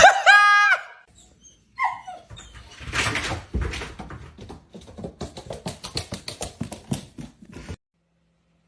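A dog whines with one high, held call right at the start, then a few seconds of rapid clicking and scuffling follow, cutting off abruptly near the end.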